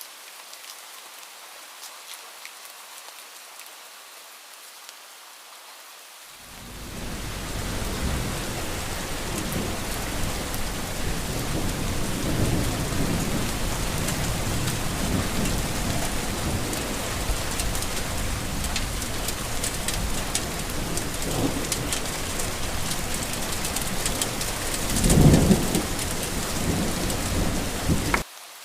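Light steady rain, then about six seconds in a heavier thunderstorm comes in: hard rain with rolling thunder rumbling on and off, and the loudest thunder peal near the end. The storm cuts off abruptly, leaving the light rain again.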